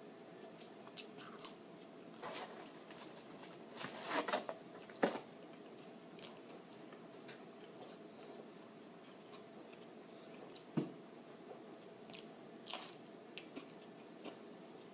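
A person biting and chewing French fries: soft crunches and mouth sounds in a few scattered clusters, the sharpest about five seconds in and near eleven seconds.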